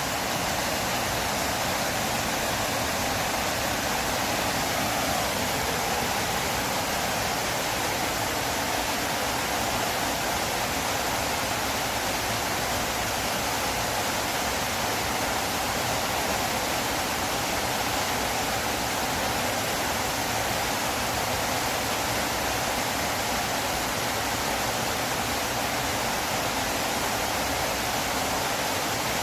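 River water flowing, a steady, unchanging rush of water.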